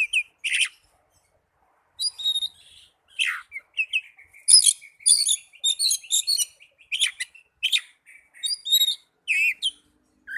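Oriental magpie-robin (kacer) singing its aggressive fighting song. It is a loud, varied run of whistles and chirps with a rapid trill in the middle. A brief phrase opens it and the song picks up again after a pause of about a second.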